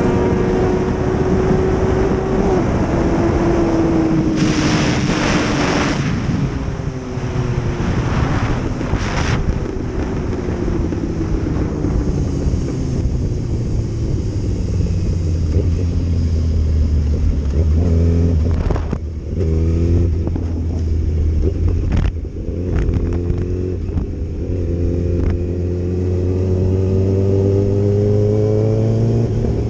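Sport motorcycle engine running under way, its pitch rising and falling with throttle and gear changes, with a few short sharp knocks around the middle.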